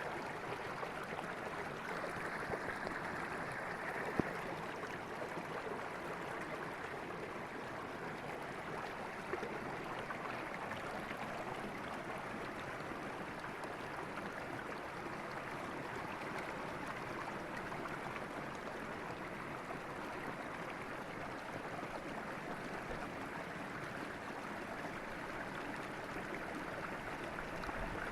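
River water flowing, a steady even rush with a single short click about four seconds in.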